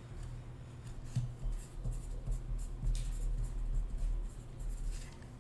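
Light scratching, rustling and small taps from cardboard boxes being handled on a table, over a low steady hum.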